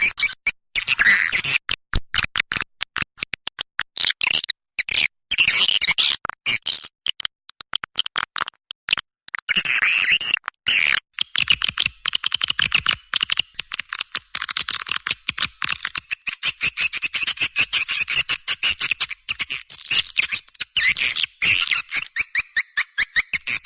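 Swiftlet calls as played for luring swiftlets: a dense, rapid, high-pitched twittering chatter of many fast clicks and chirps, with a few brief gaps in the first half.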